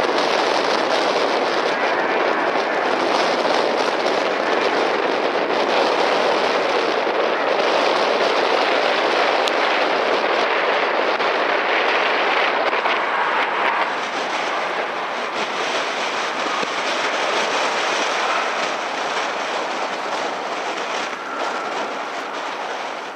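Boeing 777 twin jet engines at takeoff thrust: a loud, steady rush of jet noise that drops off about 14 seconds in and keeps fading toward the end as the aircraft moves away.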